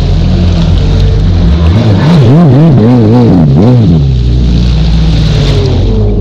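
Stand-up jet ski engine running under throttle, its pitch swinging up and down quickly about four times midway as the revs rise and fall, then settling back to a steady drone, with a rush of wind and water over it.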